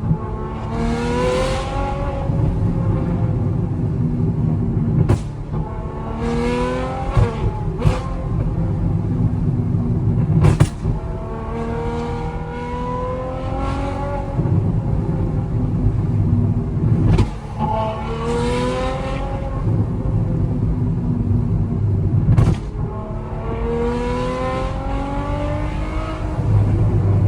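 Straight-piped Ferrari V12 accelerating hard through the gears again and again, its pitch climbing in each gear, with a sharp crack at each gear change.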